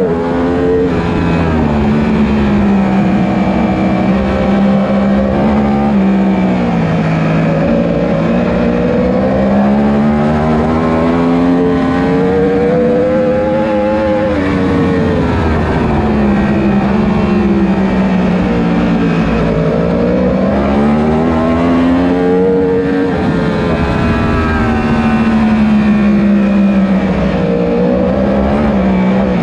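A 1000 cc superbike racing engine running hard under load, its pitch climbing over several seconds and then dropping, over and over, as the bike accelerates and slows around the circuit.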